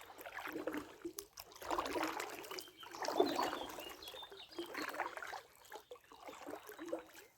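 Water swishing and splashing in uneven surges, roughly one every second or so, like something moving through the water.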